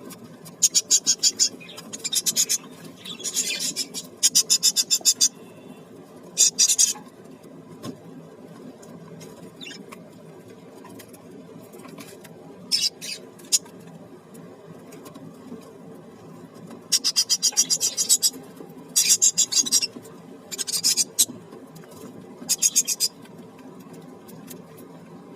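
Parrots making bursts of rapid, buzzing rattles, about ten bursts each lasting a second or less, separated by pauses, over a steady low hum.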